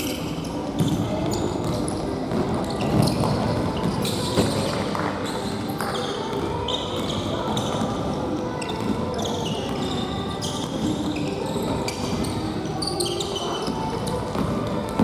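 Indoor futsal play: the ball being kicked and bouncing on the gym floor, with shoe scuffs and players calling out to each other throughout.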